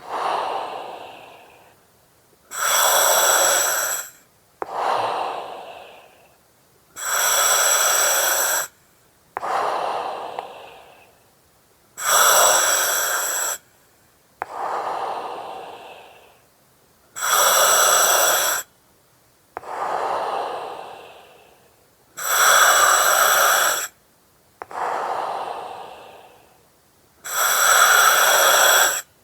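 Slow, regular breathing through an oxygen mask, about one breath every five seconds: each cycle is a steady hiss lasting about a second and a half, followed by a softer breath that fades away.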